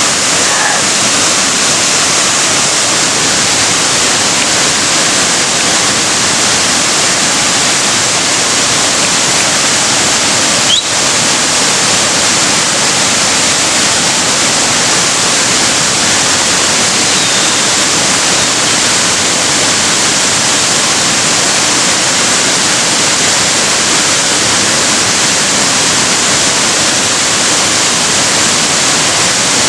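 Steady rushing of fast-flowing river water, an even hiss with no engine or voice in it, interrupted only by a brief click-like dip about eleven seconds in.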